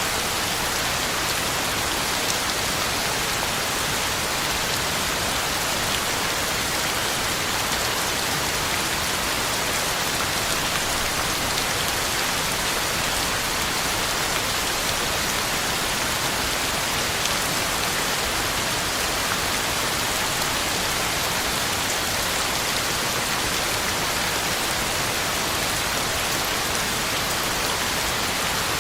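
Steady heavy rain falling on the ground and on leaves, an even unbroken hiss with faint scattered drop ticks.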